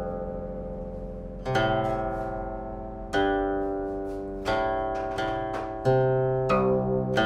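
Background music: slow plucked-string chords, a new chord or note struck every second or so and left to ring.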